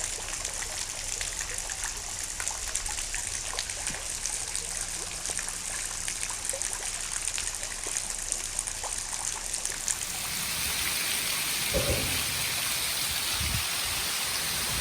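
Rain falling, with many small drops pattering and dripping. About ten seconds in it turns to a smoother, steady hiss, with a few low thumps near the end.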